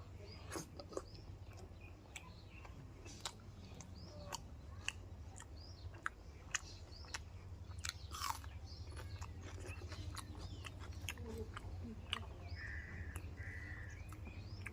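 A person chewing and biting food close to the microphone, with irregular crunching clicks every fraction of a second to a second, over a steady low hum. Birds chirp faintly in the background.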